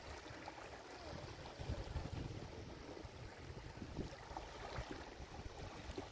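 Small sea waves washing onto a shore: a soft, steady wash of water that swells and eases, low and faint.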